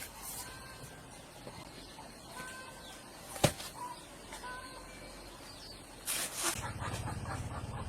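Faint bird chirps and a single sharp knock, then a small engine comes in with a low, steady hum that keeps running.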